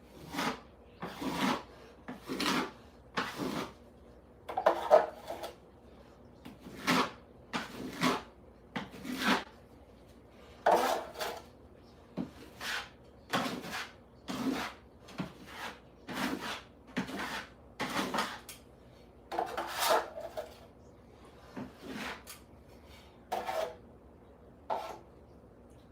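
Repeated rubbing strokes of a hand tool across a ceiling surface, roughly one stroke a second in uneven runs with brief pauses.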